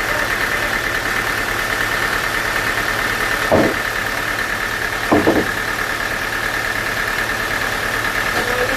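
Sawmill machinery running steadily with a constant hum, and two short knocks about three and a half and five seconds in.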